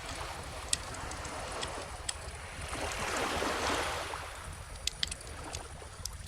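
Calm ocean waves washing onto a beach, one wave swelling and fading about halfway through, with a bonfire crackling and giving occasional sharp pops.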